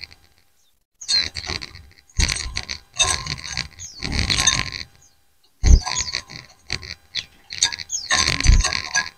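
A flock of white-eyes (pleci) chirping and twittering back and forth in short bursts of high calls. The bursts break off into sudden complete silences, and low thumps come with a few of them.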